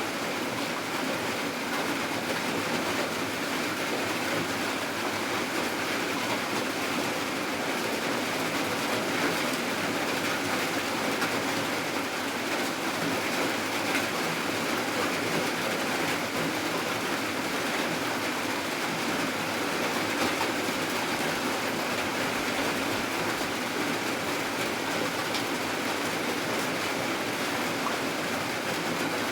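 Steady rainfall: an even, unbroken hiss of rain at a constant level.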